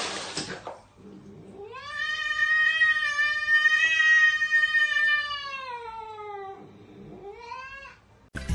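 Domestic cat yowling: one long drawn-out caterwaul that rises, holds and sinks, followed by a shorter rising meow near the end, after a brief noisy rush at the very start.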